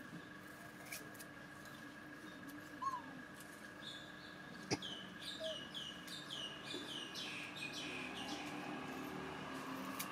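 A bird calling: a quick run of about ten high chirps, each falling in pitch, roughly three a second, over a faint steady high tone. A single sharp click just before the run is the loudest sound.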